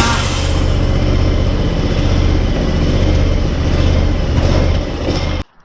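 Scag commercial mower engine running steadily, just after starting, as the mower is moved. The sound cuts off suddenly near the end.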